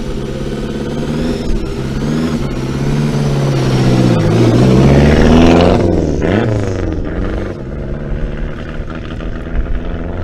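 Lancia Delta Integrale rally car's turbocharged four-cylinder engine accelerating past, loudest about five seconds in. Its pitch then drops and climbs again as the car draws away.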